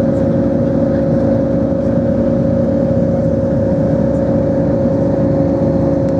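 Airbus A320-200 cabin noise in flight: a steady engine and airflow drone carrying a couple of constant hum-like tones, unchanging throughout.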